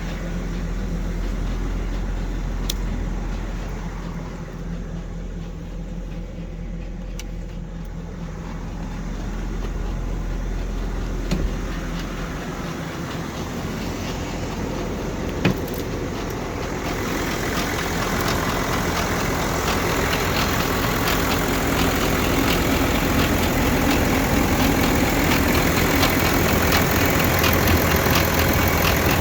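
BMW 730d's M57N2 straight-six diesel engine running, with a noise the owner puts down to the timing chain. It grows louder and fuller over the second half, with two sharp clicks in the middle.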